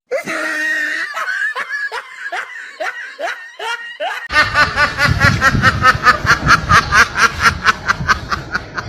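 Laughter: a run of short falling chuckles about three a second, then from about four seconds in a louder, faster cackle of about five pulses a second.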